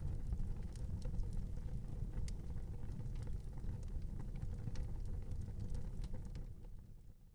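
Wood fire burning, with a steady low rumble and scattered sharp pops and crackles; the sound fades out near the end.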